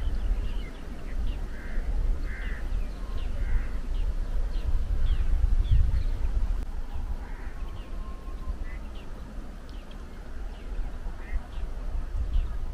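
Birds calling: a scatter of short, high chirps with a few harsher calls at irregular intervals, over a steady low rumble.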